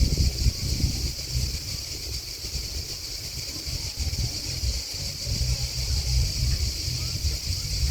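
A steady, high-pitched chorus of chirping crickets, with wind buffeting the microphone as a low rumble that rises and falls and is louder than the insects.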